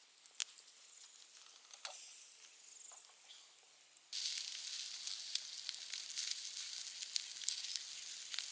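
Food sizzling in a hot pan over a camp fire: a few faint crackles, then about four seconds in a steady hissing sizzle full of small pops begins.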